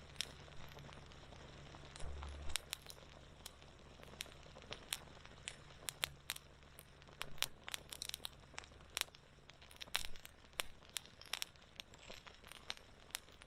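Wood fire crackling, with irregular sharp snaps and pops that come thickest from about the middle of the stretch onward.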